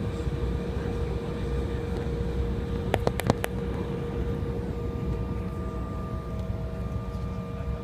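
Steady low rumble of an Embraer 175 airliner's cabin before departure, with a held whine; more whining tones join about five seconds in. A quick run of sharp clicks about three seconds in.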